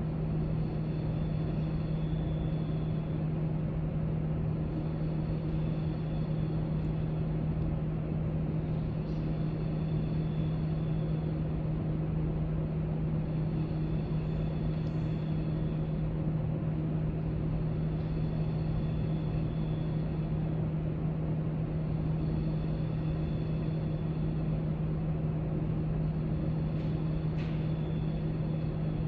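Steady library room noise: a constant low hum over a rumble, such as building ventilation makes, with a few faint light clicks, one a little louder near the end.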